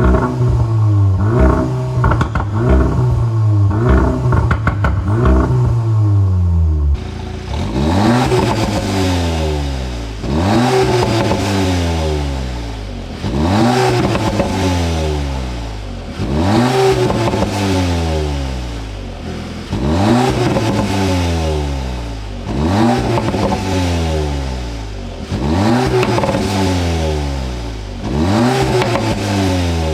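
A car engine being revved in place: quick short blips for the first several seconds, then a run of long revs, each climbing fast and falling away slowly, about every three seconds.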